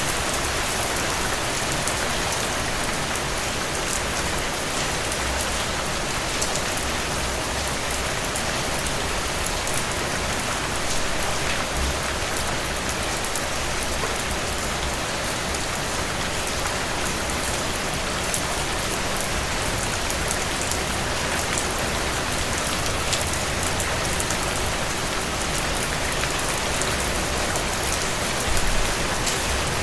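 Steady, fairly loud rain: an even hiss flecked with the hits of separate drops. A brief low rumble swells near the end.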